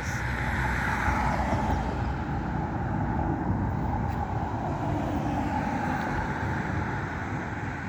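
A car being driven: steady engine and road rumble.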